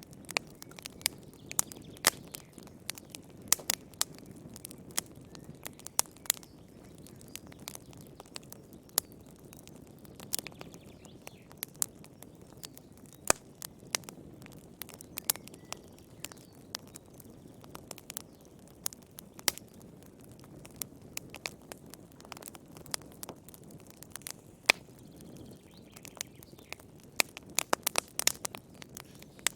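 Wood fire crackling in a fireplace: frequent irregular sharp pops and snaps over a soft, steady low rush of the flames.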